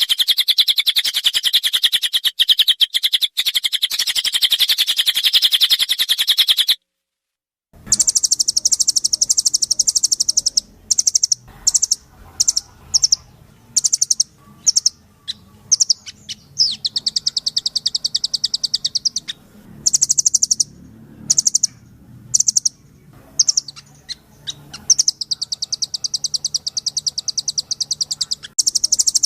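Recorded songbird song. It opens with a fast, continuous high trill, cuts to silence for under a second, then a different bird sings rapid high-pitched trills in bursts of varying length, with short chips between them.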